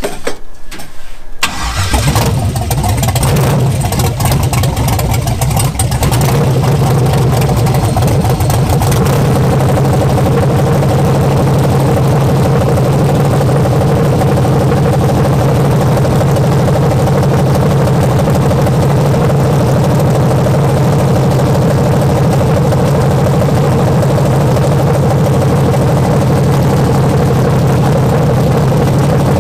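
Rebuilt 5.3 LS V8 (L59) with a Holley four-barrel carburettor and a short open side pipe, cranked and firing about two seconds in. It runs unevenly for a few seconds, then settles into a loud, steady fast idle. It is being restarted after vacuum leaks at the brake booster and transmission modulator lines were plugged, because it had been running very lean.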